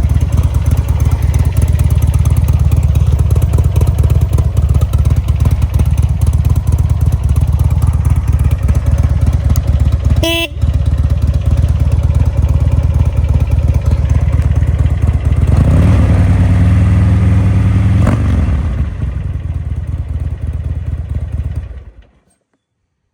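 A 2004 Buell Lightning XB12S's air-cooled V-twin idling with a loping beat. About ten seconds in there is a brief beep, and around sixteen seconds the engine is revved up once, held for about two seconds and let back down before it is switched off and stops near the end.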